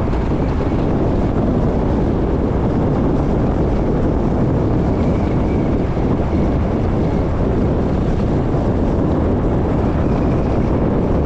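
Steady loud rush of wind buffeting the microphone on a moving motorbike, mixed with road noise.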